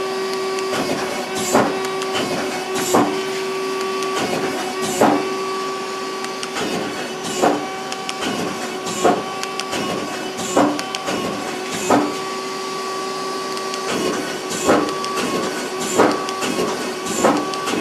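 Samsung PL10 CNC lathe's 10-position turret indexing station by station. A sharp clunk comes about every one and a half seconds as it steps and locks. Underneath runs a steady machine hum with a couple of level tones that stop and start between steps.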